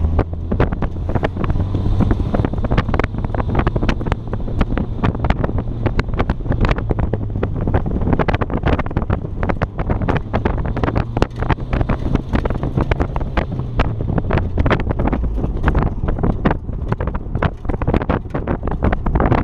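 Wind buffeting the microphone in rapid, uneven gusts, over a steady low engine drone that fades out about fifteen seconds in.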